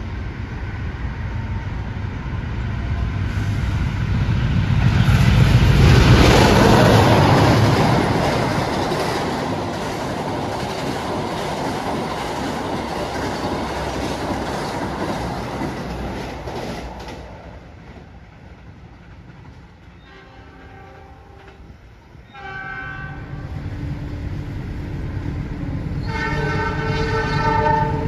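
An express passenger train runs through the station at speed, a heavy rush of wheel and rail noise that swells to its loudest about six seconds in and dies away by about seventeen seconds. A train horn then sounds in two short blasts around twenty and twenty-two seconds, and a longer, louder blast near the end.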